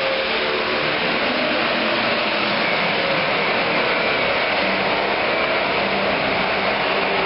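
Pro stock pulling tractor's turbocharged diesel engine at full throttle: a loud, steady roar with a faint high turbo whistle.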